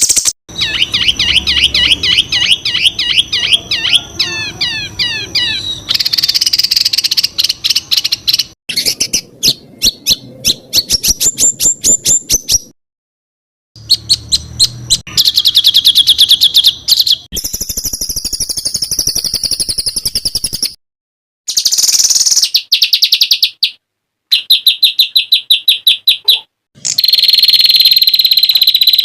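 Songbird song in fast runs of sharp, high repeated notes and sweeping trills. Several recordings are spliced together, with abrupt cuts and short silences between them.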